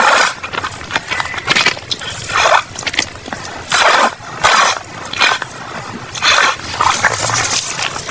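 Close-miked eating sounds: mouth noises of chewing in irregular noisy bursts, roughly one a second.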